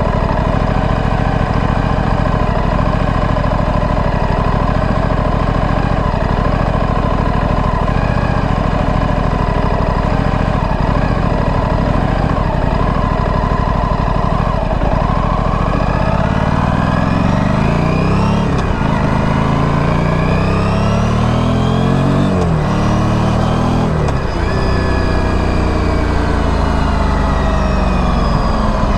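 Stock exhaust of a 2025 Aprilia Tuono 457's 457 cc parallel-twin engine running at a steady pace for the first half. Then the bike accelerates hard through several gears, the revs climbing and dropping at each upshift about every two seconds, before settling near the end.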